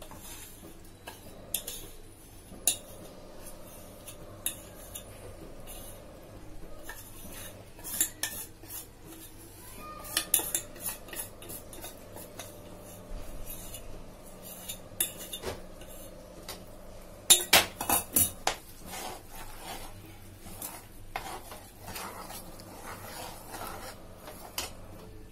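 A steel slotted ladle and spoon clinking and scraping against an aluminium kadhai and a steel bowl as gram-flour-and-ghee paste is stirred into bubbling sugar syrup. Scattered sharp clinks, with a quick run of them about two-thirds of the way through.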